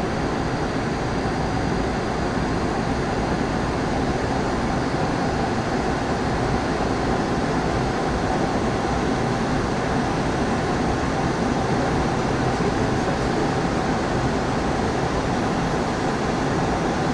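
Steady in-flight noise inside an Embraer ERJ 145 shortly after take-off: airflow, air-conditioning and engine noise blended into an even rush with a faint steady hum.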